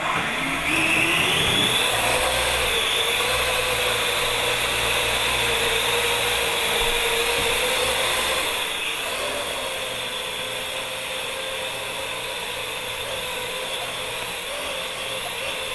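Parrot AR.Drone quadcopter's electric rotors spinning up with a rising whine, then a steady buzzing hum as it hovers. It gets a little quieter about eight seconds in.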